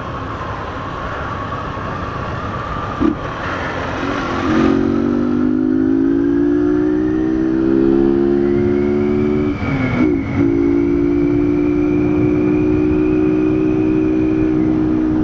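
Honda CG Titan 150's single-cylinder four-stroke engine, carbureted and running without an air filter, pulling hard under way. About four seconds in its note grows louder and climbs steadily, breaks off briefly around ten seconds in, then holds a steady, even note.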